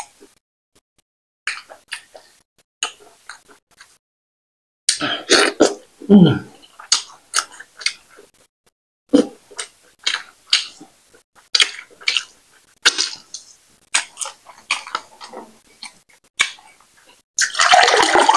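Close-miked chewing of fufu and banga soup eaten by hand, with many short wet mouth clicks and a loud throaty vocal sound about five seconds in. Near the end, water pours from a plastic bottle into a glass.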